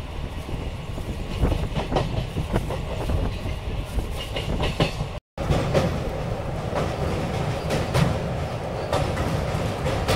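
Passenger train running, heard from on board: a steady rumble of the wheels with repeated clicks and clatter over the rail joints. In the second half the train is crossing a steel truss bridge. The sound cuts out for an instant about halfway.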